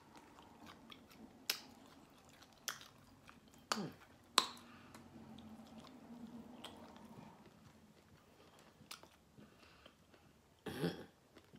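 A person biting and chewing barbecued rib meat, with a few sharp mouth clicks and smacks spread through. A short murmur comes near the end.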